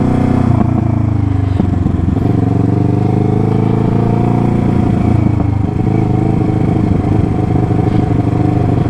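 Motorcycle engine running at low revs while the bike rolls slowly. The engine note falls about a second and a half in, then climbs and holds steady.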